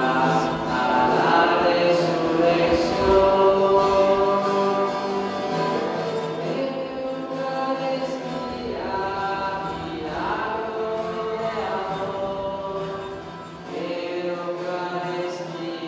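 Music with a group of voices singing long held notes, choir-like.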